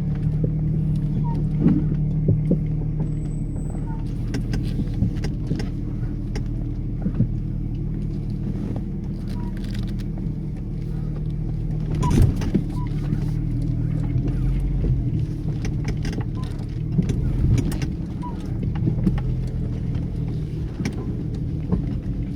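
Off-road vehicle engine running steadily at low speed on a rutted, muddy trail, with scattered knocks and clicks.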